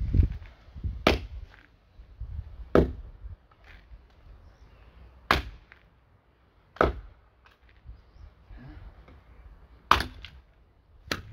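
Axe chopping wood: six sharp strikes at uneven intervals of about one and a half to two and a half seconds.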